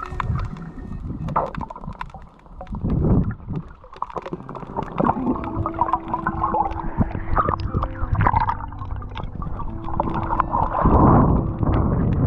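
Seawater sloshing and gurgling, with irregular splashes from someone swimming.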